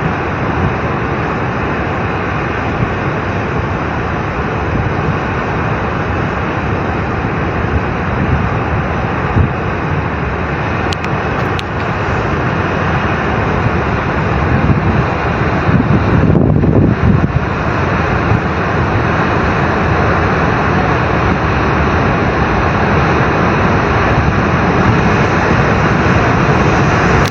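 Floodwater from a glacial lake outburst rushing down in a torrent: a loud, steady roar.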